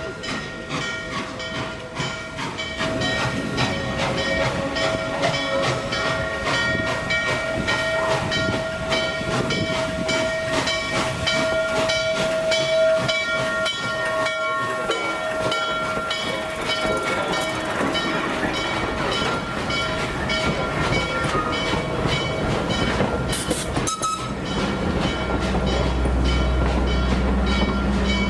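Norfolk & Western 611, a 4-8-4 J-class steam locomotive, pulling slowly into the station with its bell ringing steadily for the first half. A brief sharp hiss of steam comes about 23 seconds in, and a heavy low rumble builds near the end.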